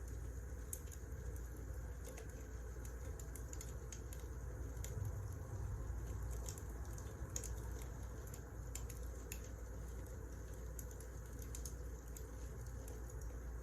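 Wood fire crackling: irregular small snaps and pops over a low, steady rumble.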